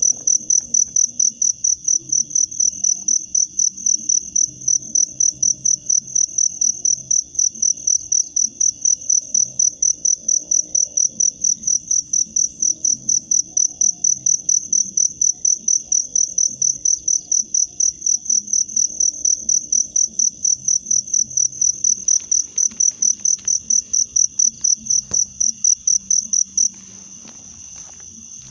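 A cricket chirping close by in a loud, even pulsing rhythm of about three high chirps a second. It cuts off abruptly near the end, leaving a fainter steady insect trill.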